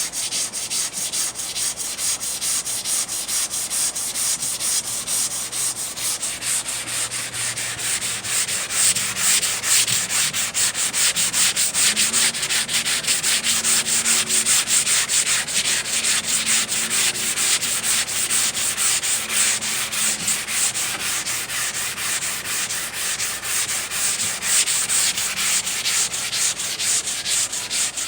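Sandpaper on a hand sanding block rubbing back and forth over cured body filler and polyester putty on a car door panel, blocking the repair down flat in a steady rhythm of a few strokes a second.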